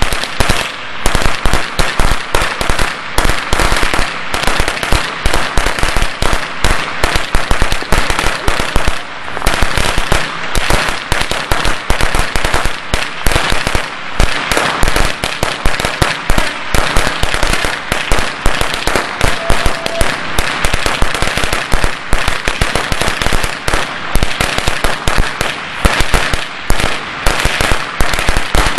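A 1,000-firecracker string going off in a continuous, rapid crackle of loud bangs, many cracks a second.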